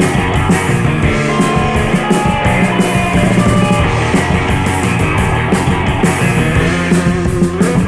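Instrumental rock music: electric guitar with bass and a drum kit playing a steady beat.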